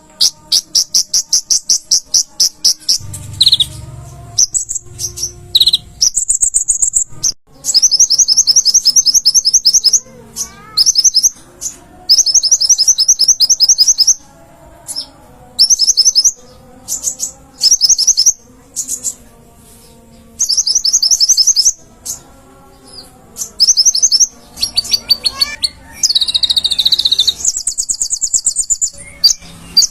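Kolibri ninja (konin), a small sunbird, singing vigorously in very high, rapid trilled phrases, repeated again and again with short pauses between them.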